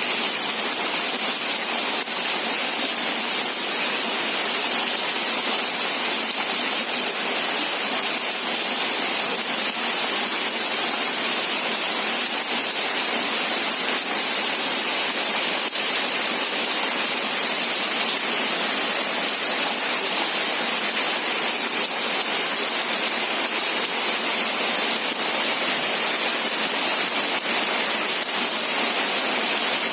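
Steady rain falling, an even unbroken hiss that does not change.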